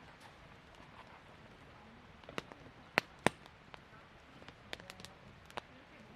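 Campfire wood crackling with scattered sharp pops; the two loudest come close together about three seconds in, with smaller ones later.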